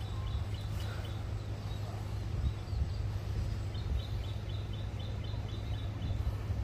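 A bird calling in runs of short, high, evenly spaced chirps, about four a second: once at the start and again in the middle, over a steady low rumble.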